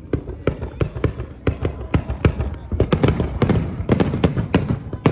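Fireworks display: a rapid string of sharp bangs from shells going off, about three a second, growing denser and louder about halfway through.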